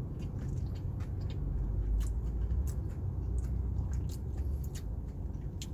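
A person chewing a mouthful of burger with the mouth closed, with small irregular crunches from the crispy fried onion ring inside it. A low steady rumble sits underneath.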